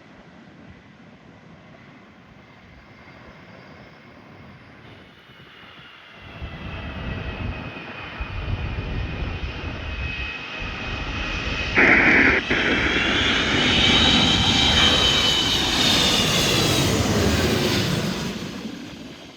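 Jet airliner passing close by: a rumble and a high engine whine build up about six seconds in, bend in pitch as the plane goes past, and fade near the end. A brief loud rush breaks in about twelve seconds in.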